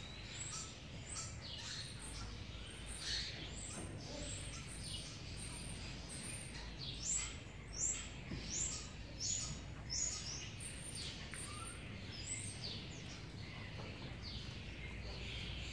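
Small birds chirping over and over: short, high chirps that slide down in pitch, a couple each second, loudest about halfway through.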